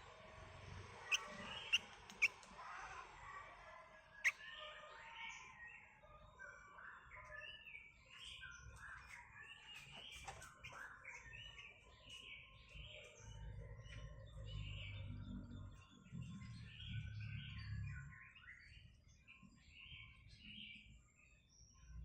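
Sooty-headed bulbul (kutilang) chirping: a busy run of short, quick notes. Four sharp clicks come in the first few seconds, before the chirping takes over.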